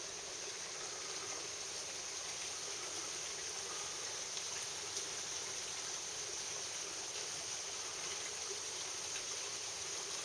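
Steady, even rushing of running water from a mountain stream at a waterfall.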